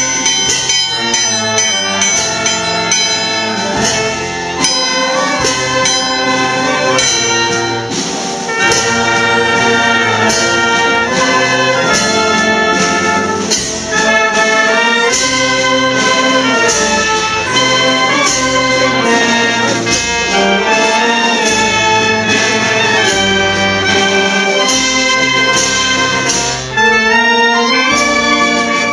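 Brass band playing a tune with a steady beat, trumpets and trombones to the fore.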